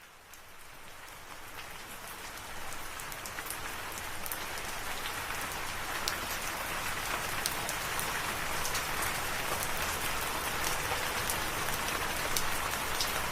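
Steady rain falling, with individual drops ticking sharply on a surface. It fades in from silence and grows louder over the first few seconds, then holds steady.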